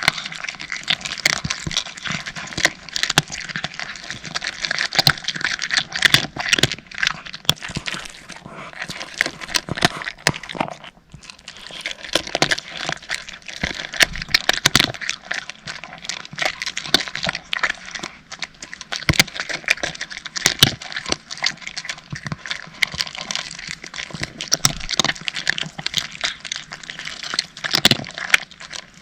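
Cats crunching dry kibble, a dense run of crisp cracking chews with a brief pause about eleven seconds in.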